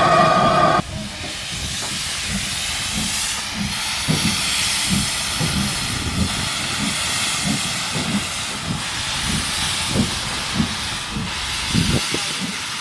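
Steam locomotive: a whistle blast cuts off about a second in, then steam hissing steadily with a regular low beat about twice a second.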